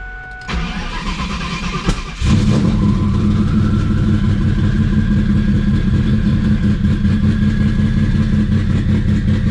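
Twin-turbo Ford Mustang SVT Cobra's 4.6-litre V8 turned over on the starter for under two seconds, then catching and settling into a loud, steady idle on a newly fitted idle air control valve.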